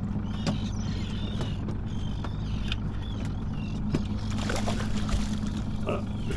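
Boat engine idling steadily, with a low even hum. Thin, high, wavering chirps come and go over it.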